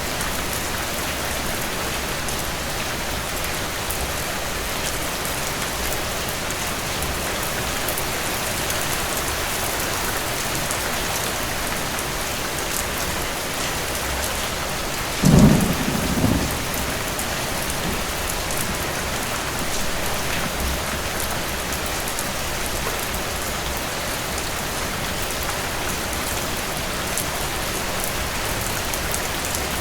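Steady heavy rain falling, with one short, loud rumble of distant thunder about halfway through.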